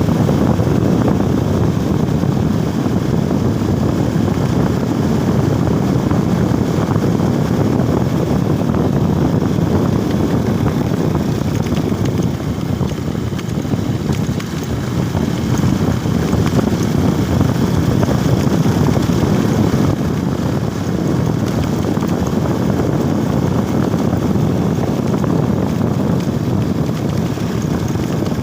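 Motorcycle riding at a steady pace: the engine and road noise under a steady low rumble of wind on the microphone.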